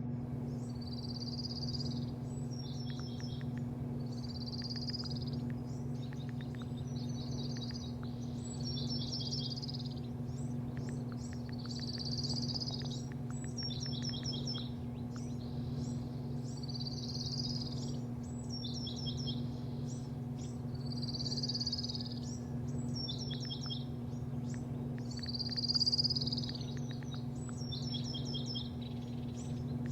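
A bird sings the same short high phrase over and over, about once every one and a half to two seconds, over a steady low machine hum.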